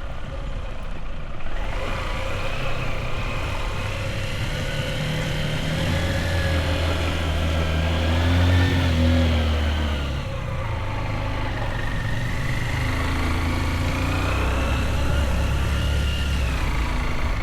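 Motorbike engine running while riding, its pitch climbing to a peak about eight or nine seconds in, dropping at ten, then climbing again and easing off near the end as the throttle changes.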